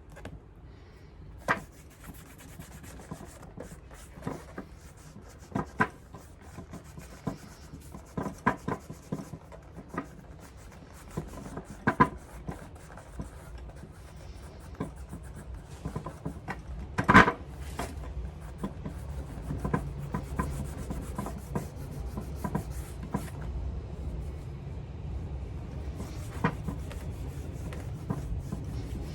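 Rubbing on a Paraboot Michael leather shoe during shoe polishing: a scratchy rubbing sound, broken by sharp knocks and clacks now and then. The loudest knock comes about seventeen seconds in.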